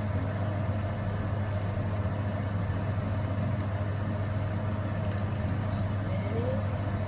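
A steady low hum with an even hiss behind it, like a machine or fan running.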